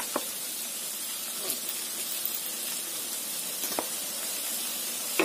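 Steady sizzle of a stir-fry in a hot pan: mustard greens, egg and fish balls frying with freshly added sweet soy sauce. A few light knocks come through it.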